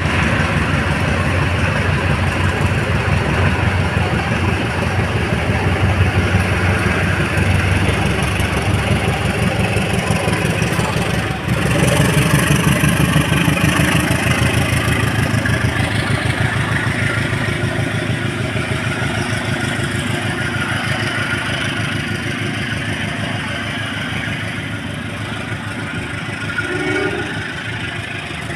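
Train diesel engine running with a steady fast throb. It grows louder about eleven seconds in, then slowly fades.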